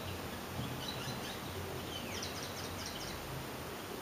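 Small birds chirping faintly in the background, with a quick run of chirps about halfway through, over a steady low hum and hiss of room noise.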